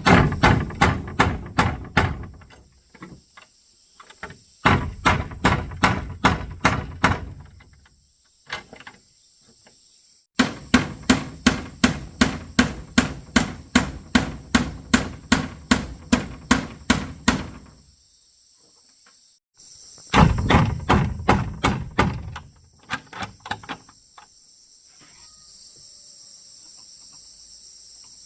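A hammer striking wood in quick, even blows about three a second, in four runs with short pauses between, as when driving nails into timber. Crickets chirp steadily in the background.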